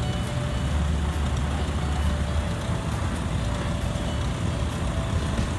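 Oliver 60 row-crop tractor's four-cylinder engine running at low speed as it drives past close by, a steady low engine sound that is loudest about one to two seconds in.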